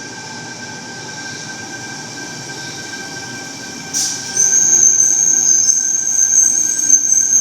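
Sydney Trains Tangara electric train pulling into the platform, running in with a steady whine; about four seconds in a loud, high-pitched squeal sets in and holds as the train slows to stop.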